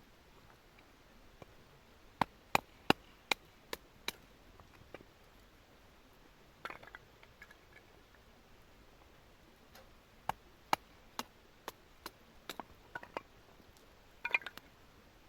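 A series of sharp wooden snaps and knocks from firewood. First comes a quick run of six, about two or three a second. Then come scattered single ones, with a short rattling cluster near the end.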